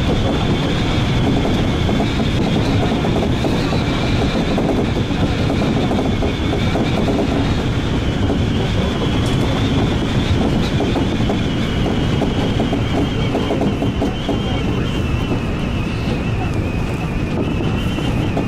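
Seibu 2000 series electric commuter train running at speed: a steady rolling rumble with a high whine that drifts slightly lower near the end.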